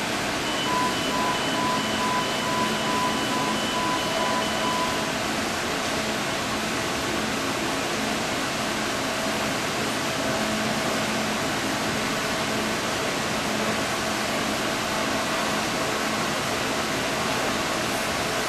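Steady rushing, humming background noise of high-speed rail station or train machinery, with an electronic tone, beeping in its higher pitch, sounding for about four seconds soon after the start.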